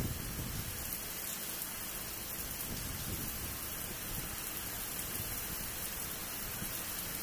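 Steady rain falling on a wet, puddled brick-paved rooftop, an even hiss with a low rumble underneath.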